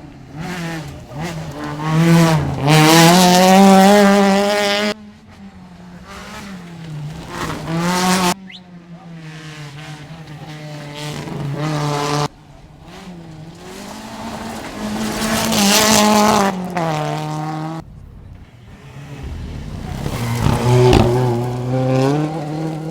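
Two-wheel-drive rally cars at full throttle, their engines revving up and dropping in pitch at each gear change as they drive past, in a string of separate passes that cut off abruptly one after another.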